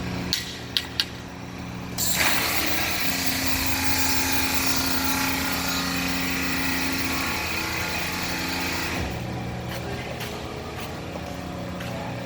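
Fire truck's diesel engine running steadily, with a few sharp clicks about a second in. A loud rushing hiss then starts suddenly at about two seconds and fades about nine seconds in.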